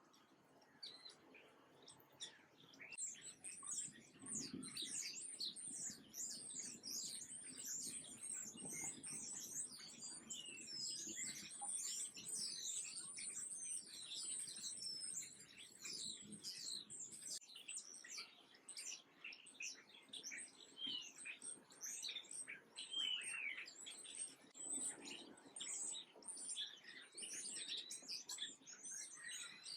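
Many small birds chirping and twittering in a dense, overlapping chorus of short, high notes, which builds up a few seconds in and keeps going.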